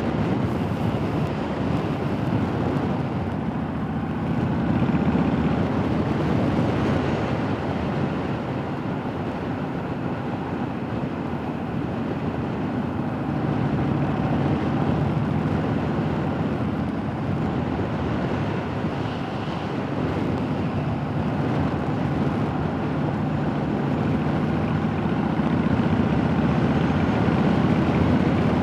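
Motorcycle engine running under way on a ride, its note shifting up and down a little, with wind rushing over the helmet-mounted microphone. It grows a little louder near the end.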